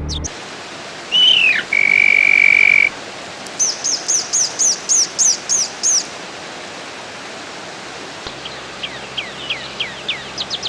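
Songbirds calling over a steady hiss: a swooping note and a held whistle early, then a quick run of about ten high notes, and a series of short falling notes near the end.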